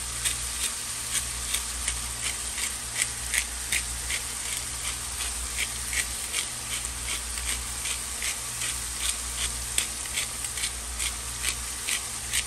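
Sausage, onion and green chili frying in a skillet with a steady sizzle, while a seasoning shaker is shaken over the pan in quick ticks, about three a second. A low steady hum runs underneath.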